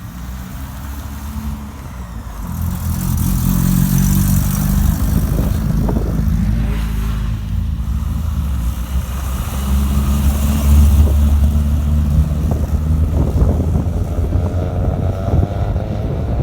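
A car engine running close by, a steady low drone that grows louder about three seconds in and stays loud.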